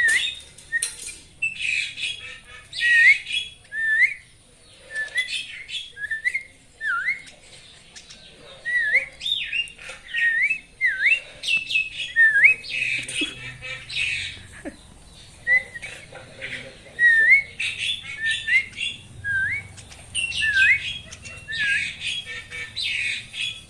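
Young tame Javan myna calling: short rising whistled notes about once a second, mixed with harsh squawking calls.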